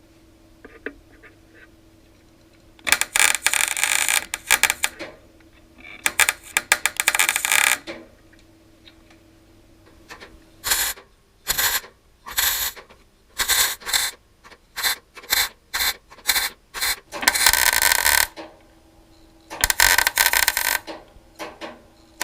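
Welder working on the sheet metal of a VW bus dog-leg repair. Two runs of a couple of seconds each come first, then a rapid series of short tack bursts about half a second apart, then two more short runs.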